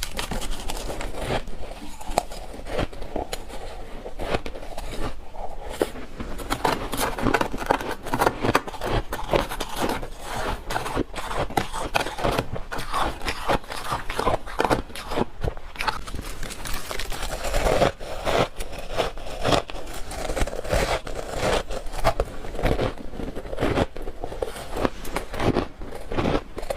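Freezer frost crunching and crackling as it is bitten and chewed, with scraping sounds mixed in: a dense, irregular run of crisp crackles.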